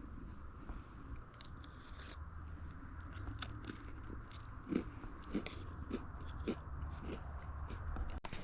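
A person chewing a mouthful of food close to the microphone, with scattered crunches and a steady chewing rhythm, about one chew every half second or so, in the second half.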